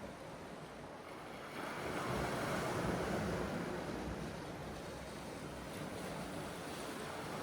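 Sea waves washing onto the shore: a rushing surge swells about a second and a half in, then slowly ebbs away.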